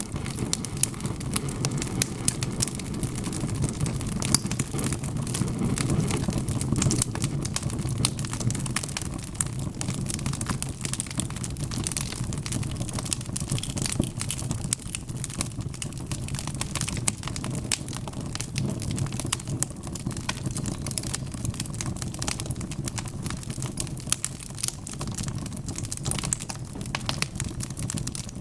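Wood fire of burning logs crackling, with many sharp pops and snaps scattered throughout over a steady low rumble of the flames.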